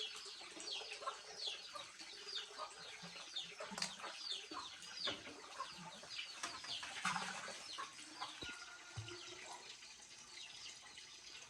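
Birds chirping over and over, short falling chirps several a second, with a few sharp clicks about four, five and seven seconds in.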